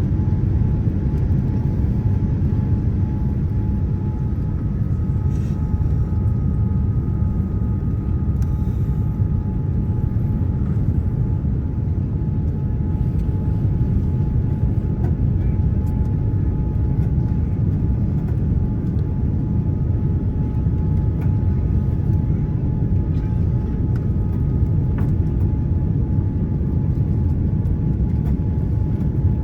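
Steady low rumble of engine and airflow noise inside the cabin of a Boeing 787-9 with GE GEnx engines, with a faint steady high tone over it.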